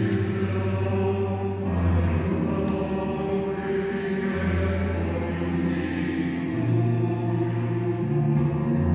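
Choir singing slow, sustained chords, the lowest note shifting about every two seconds.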